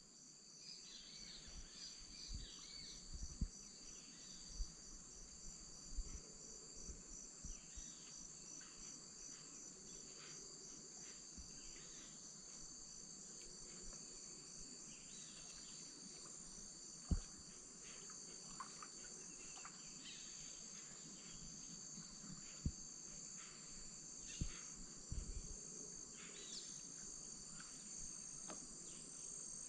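Steady high, pulsing chorus of rainforest insects, with scattered short bird calls over it. A few brief low knocks stand out now and then, the loudest about halfway through.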